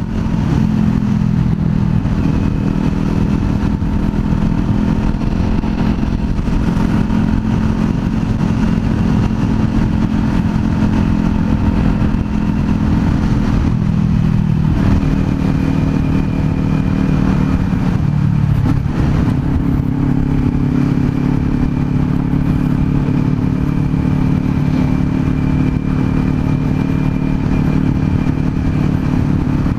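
Kawasaki Z400's parallel-twin engine running while the bike is ridden along the road. Its note shifts a few times around the middle, as with changes of speed or gear.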